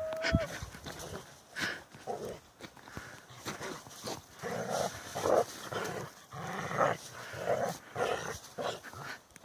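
Mountain shepherd dogs playing: a short whine at the start, then a run of short, repeated play growls, a little more than one a second.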